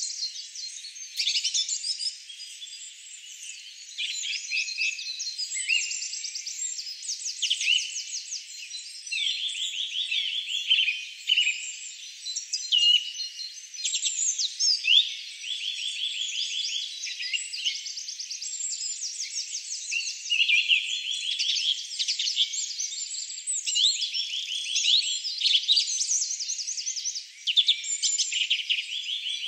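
Several songbirds singing over one another, a string of high chirps and rapid trills, one phrase after another, with no low sounds beneath them.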